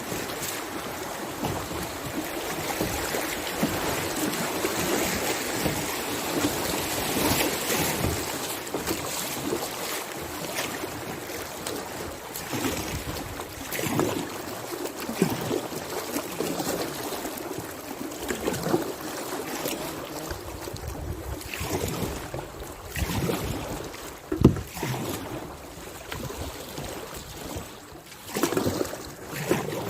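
River water rushing and splashing around a kayak, densest in the first dozen seconds, then thinning into irregular splashes and knocks.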